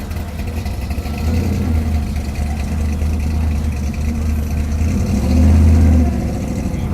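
Classic car's engine running with a deep low rumble as it drives slowly past, swelling louder for about a second around five seconds in.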